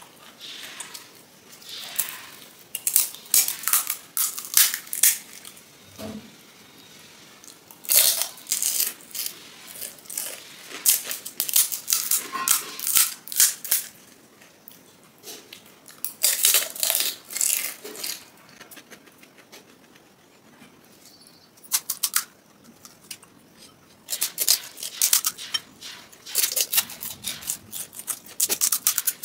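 Crisp panipuri (golgappa) shells being crunched and chewed close to the microphone, in bursts of rapid crackling with quieter pauses between.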